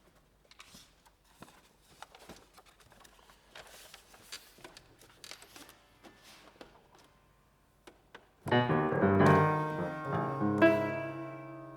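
Faint scattered clicks and rustles, then about two-thirds of the way in a piano comes in suddenly with a loud cluster of chords that rings and slowly dies away, struck again a couple of seconds later.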